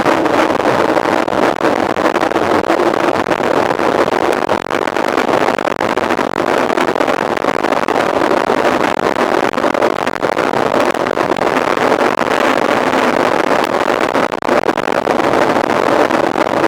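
Steady rush of wind and rolling noise on a mountain bike rider's camera while riding at speed, with many small rattles and knocks from the bike throughout.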